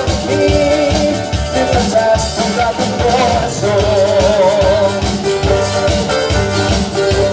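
Latin band music: a steady drum and bass beat under a melody line with wavering held notes.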